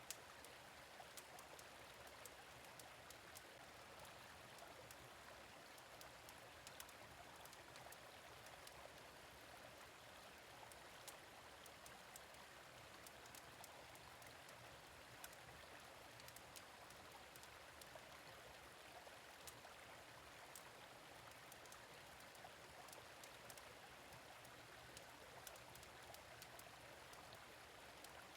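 Faint, steady rush of a gentle stream, with frequent sharp, irregular crackles and pops from a wood fire in a fire pit.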